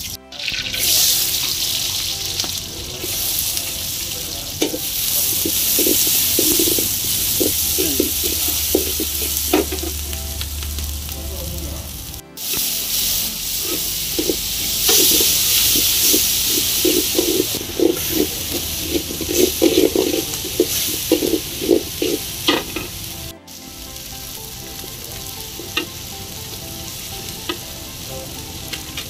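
Chopped onions, green chillies and tomatoes sizzling in hot oil in a heavy black kadai, with a metal ladle stirring and scraping the pan in repeated strokes. The sizzle breaks off abruptly twice and is quieter in the last part.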